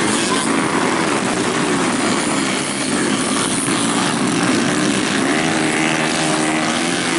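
Racing dirt-track motorcycle engines revving hard, their pitch rising and falling as the bikes accelerate and shift, over a steady hiss.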